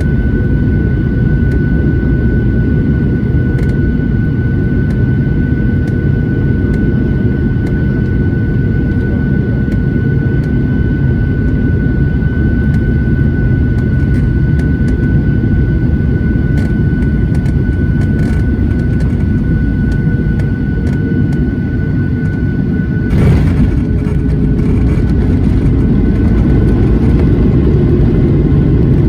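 Boeing airliner cabin noise during landing: a loud, steady rumble with a steady high whine. About three-quarters of the way through comes a brief jolt of noise as the whine stops, and there is rattling from the cabin wall panel at touchdown.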